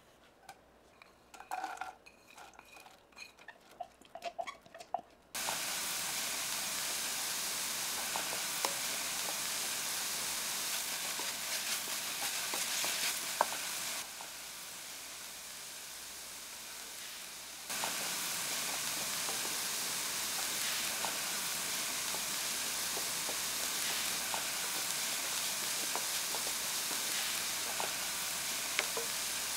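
Diced onion and celery sizzling in hot olive oil in a copper sauté pan, stirred with a wooden spoon. After a few light clinks, the steady sizzle starts suddenly about five seconds in. It drops lower for a few seconds midway, then comes back, with small scraping ticks from the stirring.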